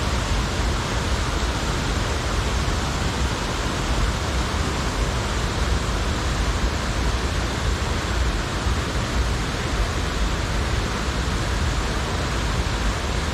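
Loud, steady rushing of stream water, an even hiss with a low rumble underneath.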